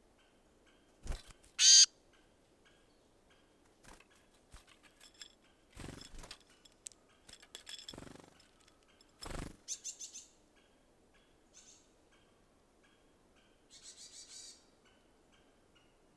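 Small birds at a feeder: a loud, short call about two seconds in, flutters and knocks at the feeder around six, eight and nine seconds, and bursts of high chattering calls near ten and fourteen seconds. A faint, regular ticking, about two a second, runs underneath.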